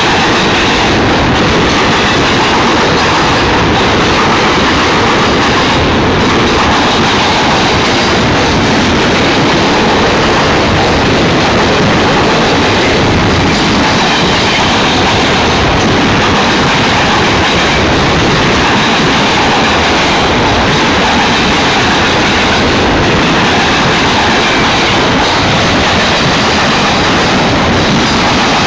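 Union Pacific freight train cars rolling past, a loud, steady rush of wheel and rail noise with no breaks.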